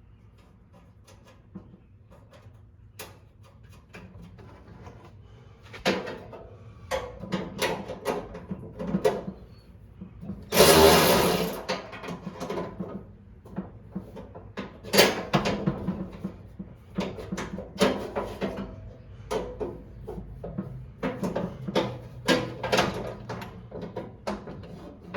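Workshop handling sounds: irregular clicks, knocks and rattles of tools and parts being worked, starting a few seconds in, with a louder rough burst lasting about a second and a half near the middle.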